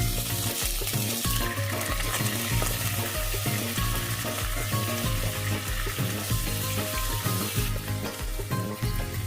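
Food frying in a hot pan, a steady sizzling hiss that grows stronger about a second and a half in, under background music with a repeating bass line.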